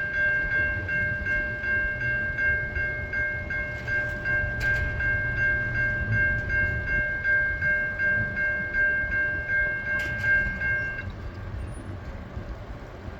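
Railroad grade-crossing bell ringing about three times a second, stopping near the end, over the low rumble of a freight train.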